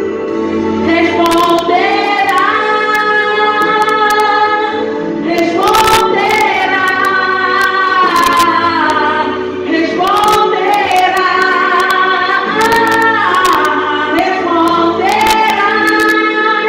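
A woman singing a gospel worship song in long held notes that slide between pitches, over sustained low instrumental accompaniment.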